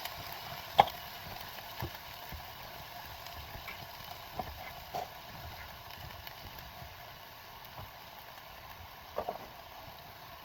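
Kitchen cooking sounds: a few sharp knocks and clinks of utensils against cookware, the loudest about a second in and a pair near the end, over a steady hiss.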